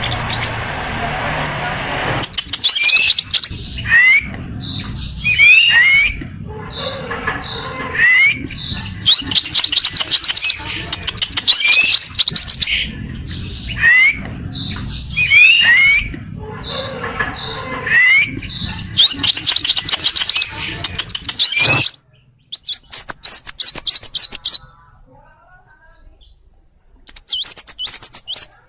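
Small bird sold in Indonesia as a 'kolibri', singing continuously in short phrases of quick high chirps and rising sweeps, repeated about every two seconds. A low steady rumble runs under the song until it drops away near the end, leaving a few more chirp bursts.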